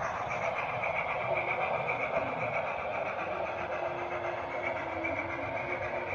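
HO-scale model train running on the layout, a steady whirring hum.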